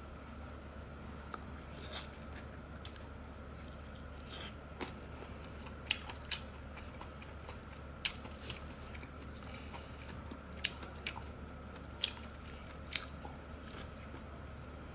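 Close-up chewing of sauce-dipped sea snail meat: short, sharp wet clicks and smacks of the mouth coming irregularly, about one a second, over a steady low hum.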